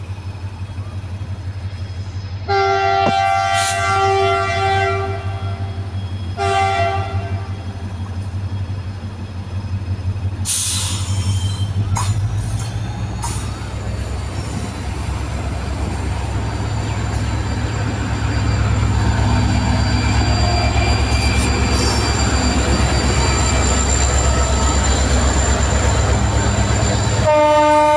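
Diesel locomotive horn sounding a long blast, then a short one a second later, over the steady low rumble of the diesel engines. The train then rolls in over the rails, the rumble and rail noise growing louder, and the horn sounds again near the end.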